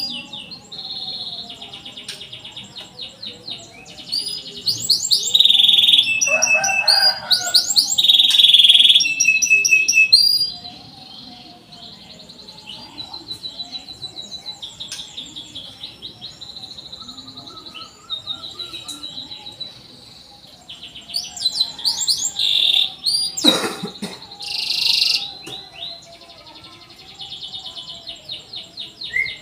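Canary singing a long song of rapid trills and quick repeated chirps. It is loudest a few seconds in, softer through the middle, and stronger again near the end, with one sharp knock about two-thirds of the way through.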